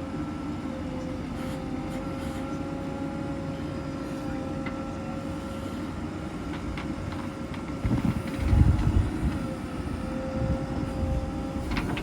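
Heavy diesel machinery running steadily, a constant whine over the engine's low rumble, which swells louder for a moment about eight seconds in.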